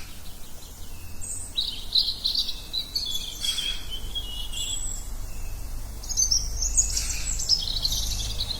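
Wild birds chirping and singing, several calls overlapping, with busier runs of quick high trills about two seconds in and again near the end, over a low steady rumble.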